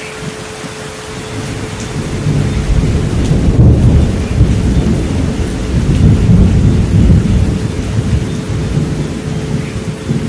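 Steady rain with a long, low roll of thunder that builds about two seconds in and slowly fades near the end, over a steady 432 Hz tone.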